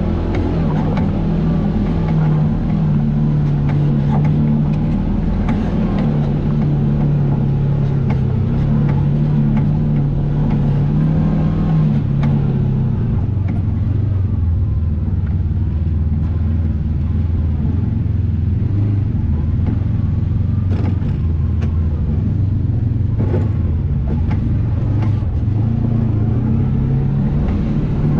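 Vehicle engine running steadily while driving on a trail. Its pitch drops about twelve seconds in and climbs again near the end, with scattered light knocks from the ride.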